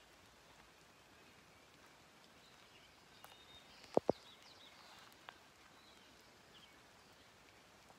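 Faint bird chirps over a low steady background hiss, with two quick low thumps close together about four seconds in.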